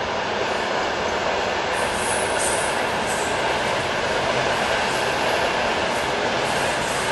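Italian high-speed train running through the station at speed: a steady rushing noise of wheels on rail and air.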